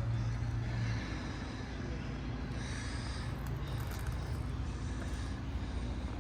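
A vehicle engine running with a steady low hum that is strongest for about the first second and then drops back, over general outdoor background noise.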